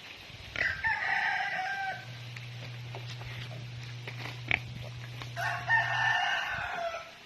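A rooster crowing twice, each crow lasting about a second and a half, the second ending with a fall in pitch.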